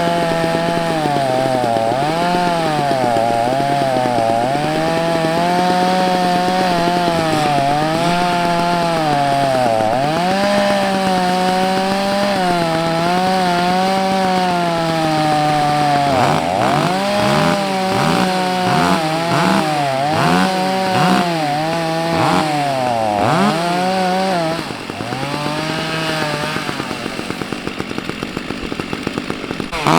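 Two-stroke chainsaw running at high revs, its pitch sagging and recovering again and again as it loads and unloads. From about halfway it is revved up and down in quick throttle blips, then it falls to a slightly quieter, rougher run near the end.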